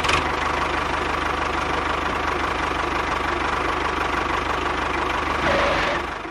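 An engine running steadily with a fast, even low pulse, cutting off abruptly at the end.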